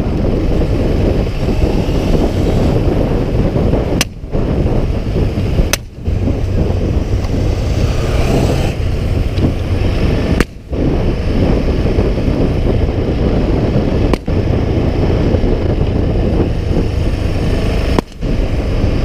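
Motorcycle riding at speed with heavy wind on the microphone. The engine and wind sound dips briefly about five times. Two sharp exhaust pops, the misfires the riders set off on purpose, crack out about four and six seconds in.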